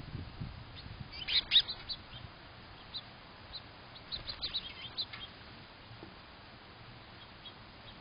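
Small birds chirping in short, high calls, with a quick loud cluster about a second and a half in and scattered chirps around four to five seconds in.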